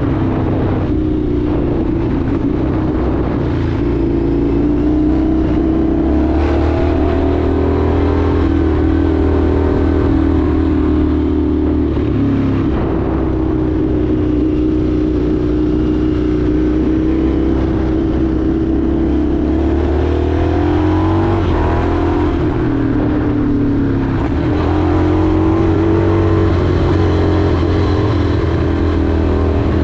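Indian FTR 1200's V-twin engine running under way on a ride, its pitch rising and falling several times with throttle and gear changes.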